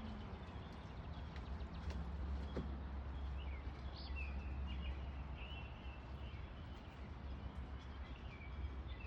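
Faint short bird chirps over a steady low rumble, the chirps starting about three and a half seconds in.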